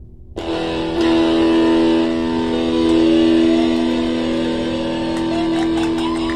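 Loud, sustained fuzz-distorted guitar-like drone through a homemade pedal chain into an amp, starting suddenly about half a second in, with a thinner tone that slides up in pitch and back down over it.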